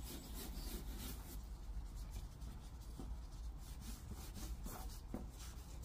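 Oxidation-remover wipe being rubbed in circles over a plastic car headlight lens: faint, irregular rubbing strokes over a steady low hum.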